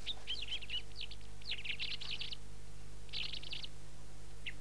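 A small bird chirping in four quick bursts of rapid, high twittering notes, with short pauses between the bursts.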